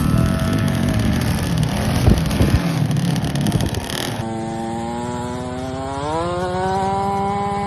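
KTM kids' motocross bike engines: first a rough mix of engine noise and wind buffeting with a few knocks, then after a sudden change a single engine note running steadily, rising in pitch about six seconds in as it revs up and then holding.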